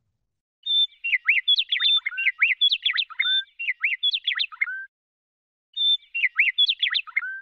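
A songbird singing a rapid song of varied chirps and whistled sweeps. It comes in two bursts with a short pause between them, and the second burst is cut off abruptly.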